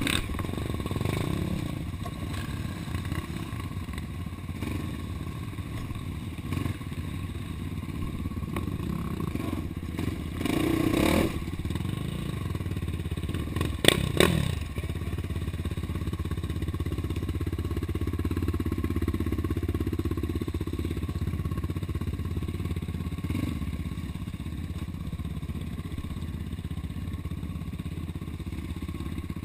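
Off-road vehicle engine running steadily on a trail ride, with clattering over rough ground. The engine rises briefly about a third of the way in, and there is a sharp knock about halfway through.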